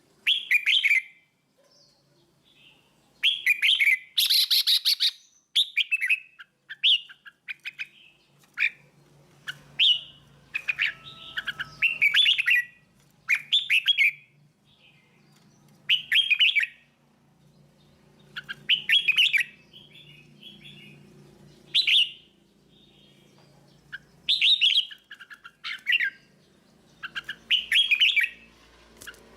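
Red-whiskered bulbul singing: short, bright warbled phrases repeated every one to three seconds with pauses between. It is the song of a mature 'teacher' bird, of the kind played to young bulbuls so they learn it.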